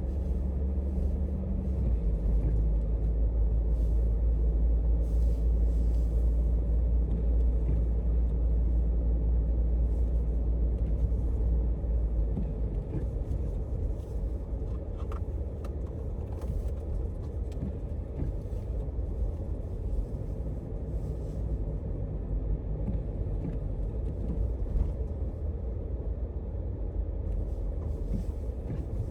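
A steady low rumble of a motor vehicle running, with engine and road noise.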